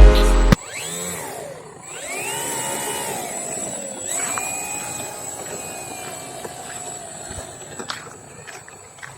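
Music cuts off about half a second in, then an RC plane's 2212 1000 KV brushless electric motor and propeller whine. The pitch sweeps down, up and down again, then holds nearly steady for a few seconds before fading out near the end.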